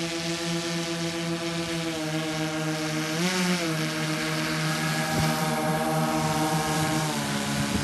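Twin brushless outrunner motors and propellers of an electric RC airplane running with a steady whine, rising briefly in pitch about three seconds in and dropping slightly near the end as the throttle changes.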